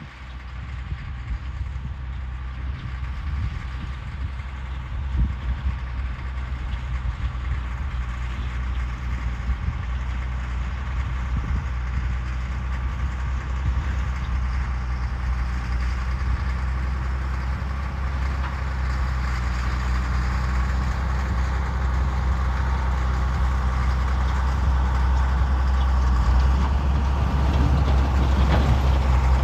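The engine of a 1952 Oshkosh W712 plow truck running steadily under load while pushing snow, growing gradually louder.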